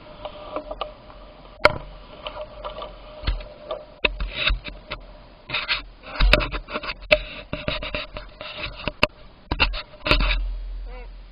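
Irregular clicks, knocks and scraping rattles from a bicycle being ridden over a bumpy surface.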